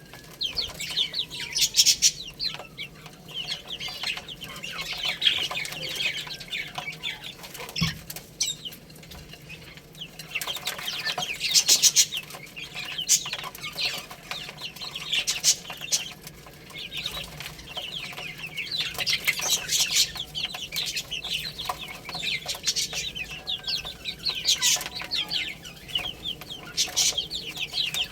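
Many baby chicks peeping, with high chirps overlapping in busy spells that rise and fall.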